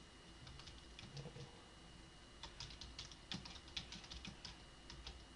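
Faint typing on a computer keyboard: scattered key clicks, then a quick run of keystrokes about halfway through.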